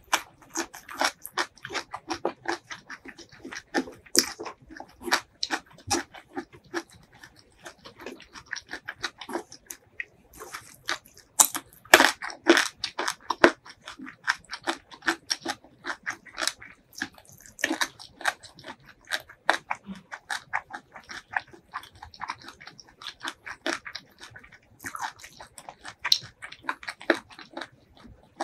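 Close-miked eating sounds: steady chewing with dense, irregular crunches and mouth clicks as pieces of crisp raw cucumber are bitten and chewed. The loudest run of crunches comes about twelve seconds in.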